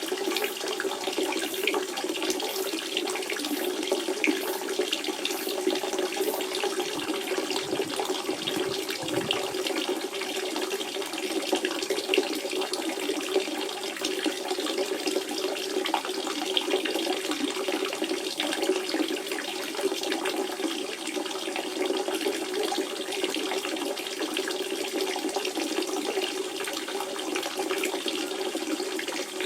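Spring water running and splashing steadily over stones, a continuous gurgling flow.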